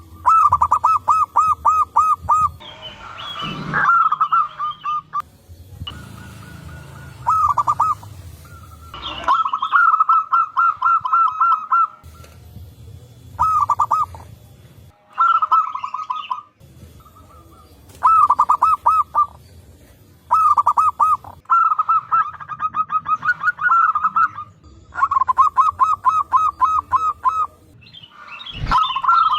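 Zebra doves (perkutut) cooing, several birds answering one another: phrase after phrase of fast, evenly repeated staccato notes, with short pauses between the phrases.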